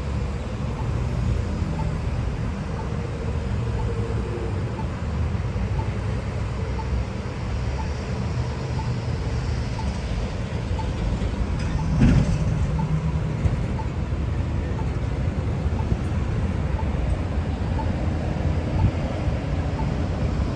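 Steady road traffic running past, mostly a low rumble, with a brief louder burst about twelve seconds in. A faint, regular ticking runs underneath.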